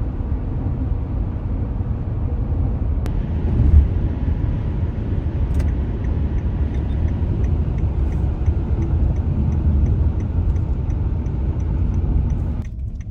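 Minivan driving, heard from inside the cabin: steady low road and engine rumble. A light, regular ticking at about two or three a second joins it in the second half, and the rumble falls away near the end.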